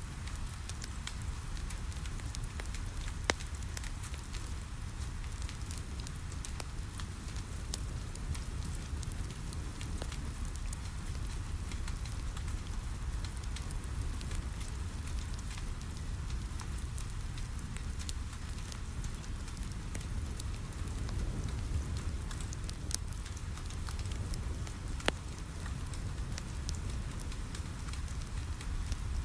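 Wood fire crackling, with scattered small snaps and two louder pops, over steady rain and a low rumble.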